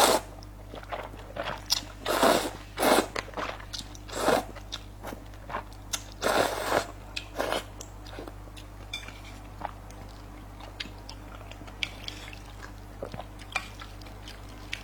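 Slurping and chewing soft rice noodles: several loud slurps in the first seven seconds, then quieter, sparser wet chewing clicks.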